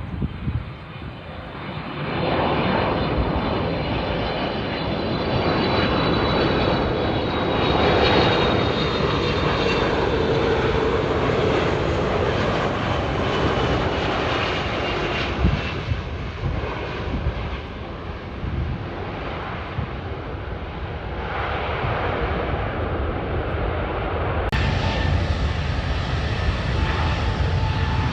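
Jet airliner's engines running loud as it passes, a steady roar with a whining tone that slowly falls in pitch. It builds a couple of seconds in and is loudest about eight seconds in.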